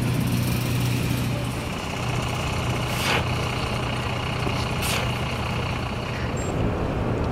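A large vehicle's engine running steadily with a low hum, under a band of hiss, with two short sharp clicks about three and five seconds in.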